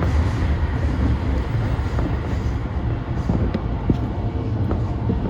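E235 series electric train running along the line, heard from on board: a steady low rumble with a few short clicks from the wheels on the track.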